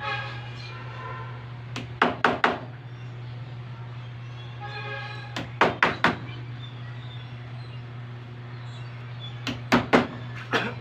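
Staple gun firing in quick bursts of about three sharp clacks, three times, fastening a motorcycle seat cover, over a steady low hum.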